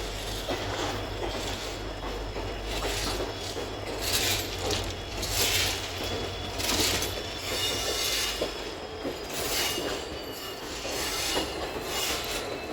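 Passenger train running on the rails with a steady low rumble. Its wheels squeal and hiss against the rails in repeated swells about every second or so, and thin high squeal tones set in about halfway through.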